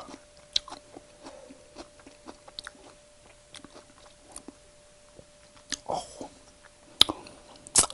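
Close-miked chewing of enoki mushrooms in a very spicy sauce: soft, wet mouth clicks and smacks scattered through, with a few louder sharp mouth sounds near the end.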